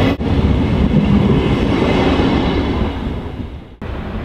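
SBB passenger coaches rolling past at close range, with steady wheel-on-rail noise. The noise fades after about three seconds and gives way to quieter, steady background noise near the end.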